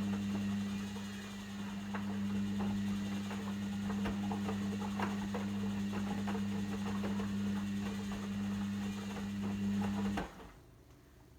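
Logik L712WM23 washing machine humming steadily with a low electrical buzz, with scattered light clicks and splashes over it, then cutting off suddenly about ten seconds in.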